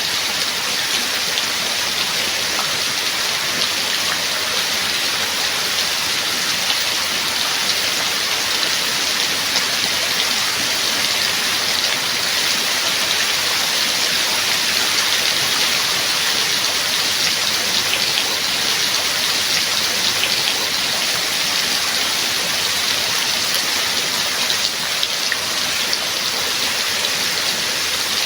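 Steady rain falling: an even, unbroken hiss with faint ticks of individual drops, no thunder.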